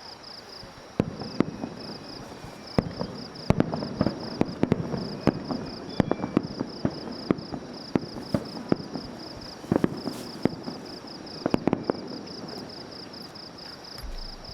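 Aerial fireworks going off in quick succession: a dense run of sharp bangs and crackles with rumbling echoes, starting about a second in and dying away near the end. A steady pulsed insect chirping runs underneath.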